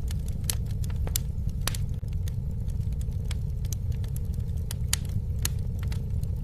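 Campfire crackling: irregular sharp pops and snaps from burning wood over a steady low rumble of flame.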